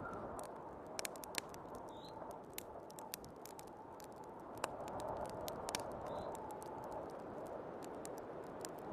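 Wood fire crackling, with scattered sharp pops, over the steady rush of snowstorm wind, which swells a little about halfway through.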